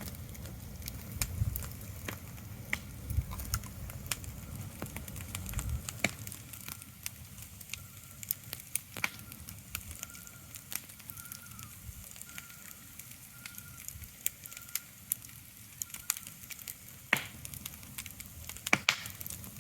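Irregular crackling with scattered sharp pops over a soft hiss, and a low rumble that stops about six seconds in. A faint, high, steady tone with short breaks runs through the middle stretch.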